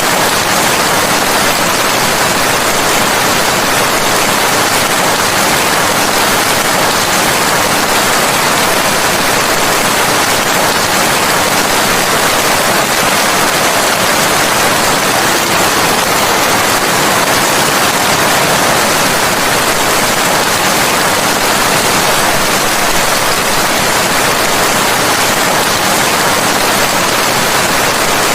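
Steady, dense rain with a continuous hiss and no distinct drops, thunder or changes in level.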